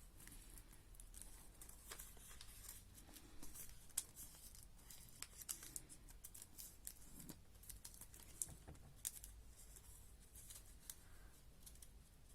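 A sheet of origami paper being folded and creased by hand: faint rustling with scattered sharp little ticks and crinkles.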